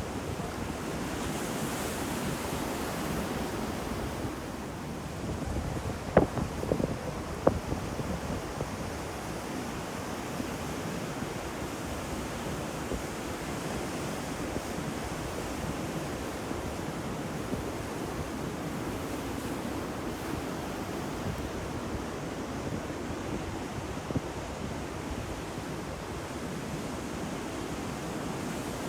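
Ocean surf crashing and washing in a steady roar, with wind buffeting the microphone. A brief run of sharp cracks stands out about six to seven seconds in.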